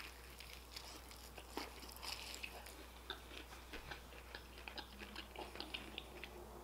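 Close-up chewing of fried chicken with a crunchy Hot Cheeto crust: faint, irregular crunches and small mouth clicks, coming more often in the second half.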